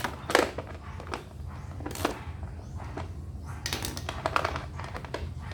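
Scattered clicks and taps of hard plastic parts and tools being handled as a gasoline inverter generator's cover is taken off, with a cluster of quick clicks near the end, over a low steady hum.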